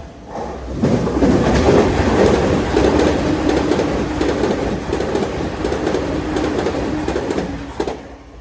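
A Tokyu Meguro Line electric commuter train passing at high speed, its wheels clacking over the rail joints. The sound swells about a second in, holds loud and steady, then cuts off sharply near the end as the train clears.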